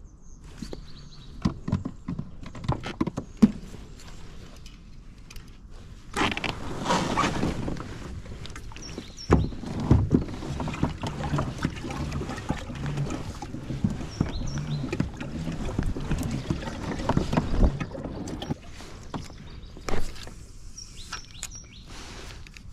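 A fishing kayak on the water: small knocks and clicks of gear against the hull in the first few seconds, then about twelve seconds of steady water noise around the boat.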